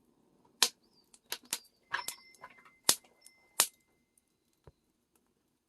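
About eight sharp, irregular snaps and pops, with a faint thin whistle held for a second or two in the middle.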